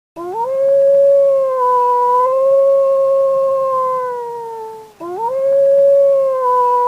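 Wolf howling: two long howls, each sliding up at the start and then held nearly level. The first lasts about five seconds and sags slightly at its end before the second begins.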